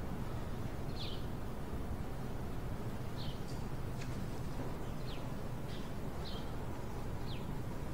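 Birds chirping in short, high, separate notes at irregular intervals over a steady low background hum.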